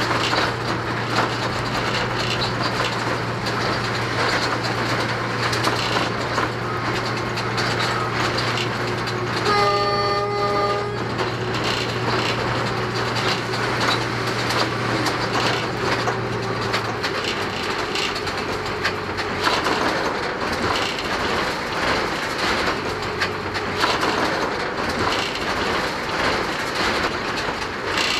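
Diesel locomotive of an express train running at speed: a steady rushing noise with wheels clicking over the rail joints, and a low engine hum that eases off a little past halfway. About ten seconds in, the locomotive horn sounds once for about a second and a half.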